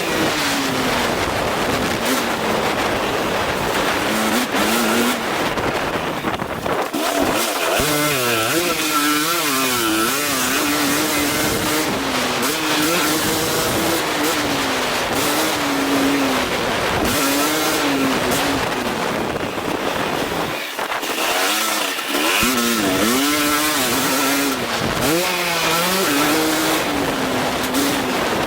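KTM 250 SX-F four-stroke single-cylinder motocross bike engine revving up and down while being ridden on a dirt track. The pitch rises and falls again and again, with quick wobbles now and then, over a steady rush of noise.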